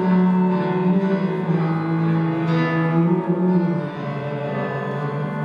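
Live music from a slow ballad between sung verses: long held notes stepping down in pitch over a few seconds.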